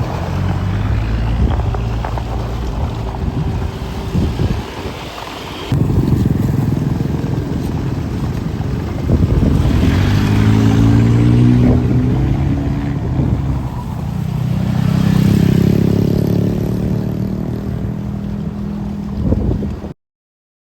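Heavy road traffic, buses and trucks with their engines running as they pass, the engine pitch rising and falling, with wind buffeting the microphone. The sound cuts off suddenly near the end.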